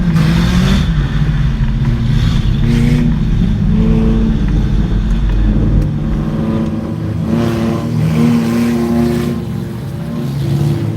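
Several stock car engines running together, revving up and down.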